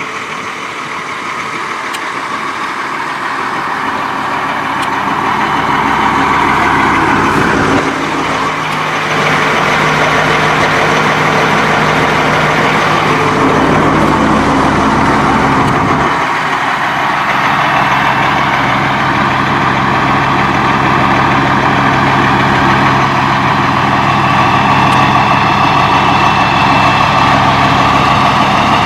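1999 Blue Bird TC2000 school bus engine running and getting louder over the first few seconds. The engine note breaks and settles to a new pitch twice, about 8 and 16 seconds in, like gear changes as the bus pulls away.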